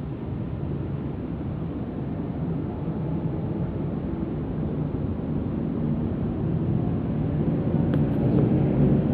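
Argo Parahyangan passenger train running: a steady low rumble that grows gradually louder.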